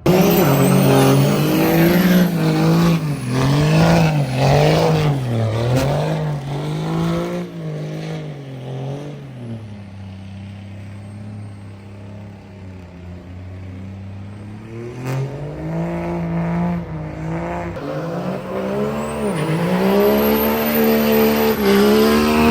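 Truck engine being revved hard over and over, its pitch swinging up and down. It drops back to a lower, quieter running for several seconds midway, then climbs in revs again near the end.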